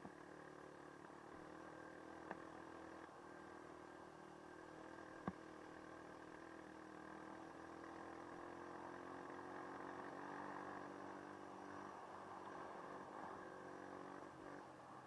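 Dirt bike engine running steadily and faintly, growing a little louder for a few seconds in the middle before easing back near the end. Two sharp ticks cut through it within the first six seconds.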